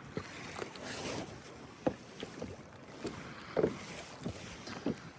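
Choppy water slapping against a sit-on-top kayak's hull in short, irregular splashes, over a steady hiss of wind on the microphone.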